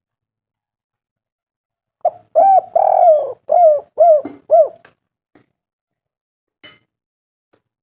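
Spotted dove cooing: one phrase of about six arched coos, the third one longest, starting about two seconds in and lasting under three seconds. A faint click comes near the end.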